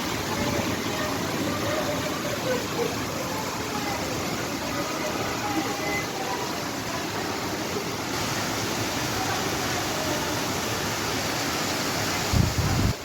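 Steady rain shower falling, an even hiss of rain, with a short low bump near the end.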